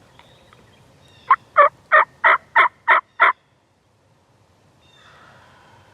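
Turkey calling: a quick series of seven loud, evenly spaced yelp-like notes, about three a second, lasting about two seconds.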